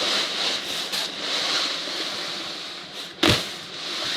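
Synthetic sleeping bag rustling as it is handled and spread out, swelling and fading, with one sharp knock a little past three seconds in.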